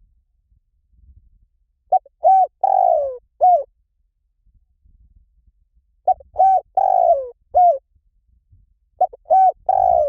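Spotted dove calling: three repeated phrases of four coos, the third note longer and falling in pitch, spaced three to four seconds apart.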